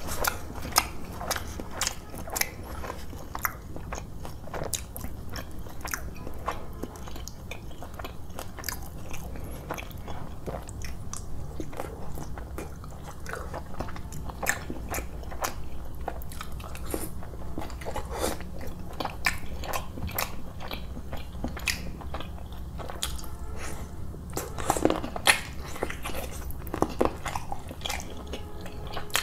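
Close-miked eating sounds of roti and chicken curry being chewed, with many short, wet mouth clicks and smacks throughout. A low, steady hum runs underneath.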